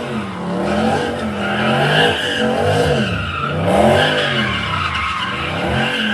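Dodge Scat Pack's 392 V8 revving up and falling back several times while its tyres squeal and skid through a slide.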